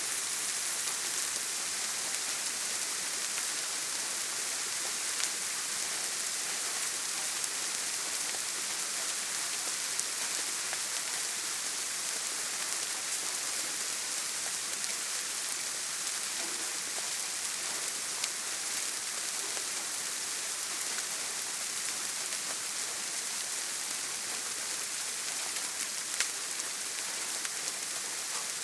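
Steady heavy rain falling on a tin roof, an even hiss with a few louder single drop ticks scattered through.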